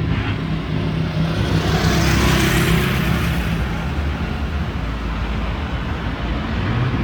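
Car engine running low and steady, with a rush of noise that swells and fades about two to three seconds in as a car passes close.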